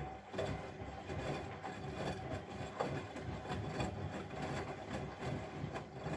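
Bosch Maxx WFL 248Y front-loading washing machine turning its drum in a wash cycle: the motor running with the laundry tumbling and knocking irregularly, then stopping abruptly at the end of the turn.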